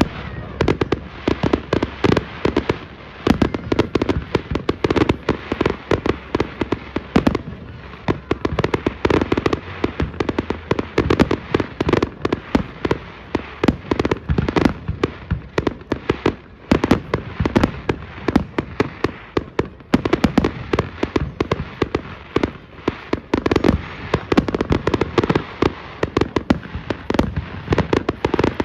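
Firework display: aerial fireworks bursting in a dense, unbroken barrage of loud bangs and cracks, several a second.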